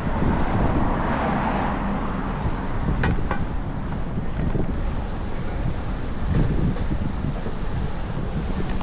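Strong wind buffeting the microphone, a steady low rumble, over street traffic noise; a broad whoosh swells about a second in.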